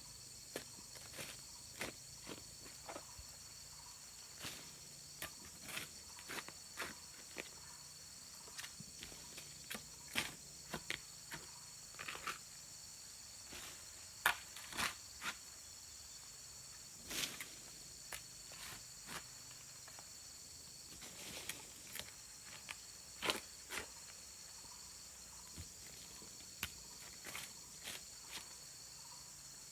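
Steady high chirring of crickets, with irregular short knocks and clicks scattered through it, a few of them much louder, about halfway through and again later.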